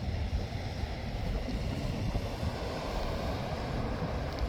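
Wind buffeting the microphone outdoors: a steady, uneven low rumble with a faint hiss over it.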